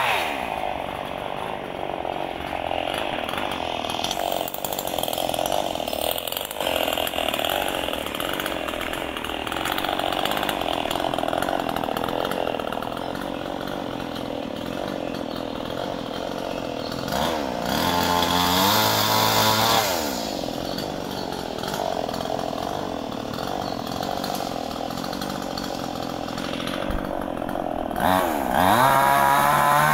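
Ecolite EC6800 58 cc single-cylinder two-stroke chainsaw running. It drops from high revs at the start to a steadier lower speed, is revved up and let back down about two-thirds of the way through, and revs again near the end.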